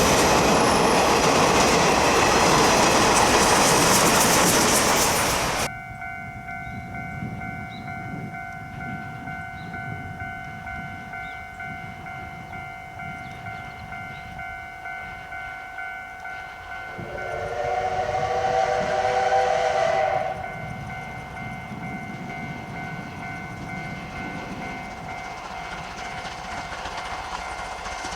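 C12-class steam tank locomotive running loudly for the first five or so seconds, cutting off abruptly; then quieter running with one whistle blast of about three seconds, made of several tones sounding together, around two-thirds of the way in.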